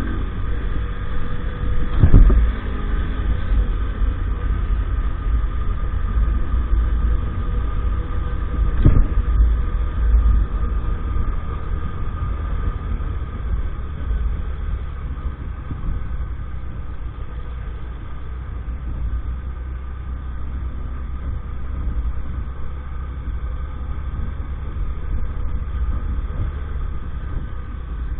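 Small 50cc moped engine running steadily under a heavy low rumble while riding. Two sharp thumps come about two seconds and about nine seconds in.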